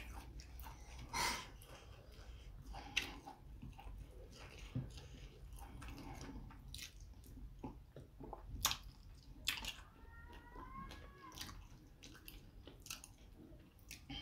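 Close-miked eating sounds of fufu with ogbono soup: irregular wet chewing, lip smacks and soft sticky clicks. About ten seconds in there is a brief high-pitched vocal sound that rises and falls.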